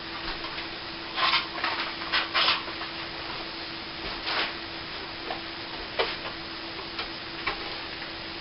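Short scraping strokes of a plastering trowel across setting cornice cement on a ceiling patch during the final scrape-back, with a few sharp taps in the second half. A steady low hum runs underneath.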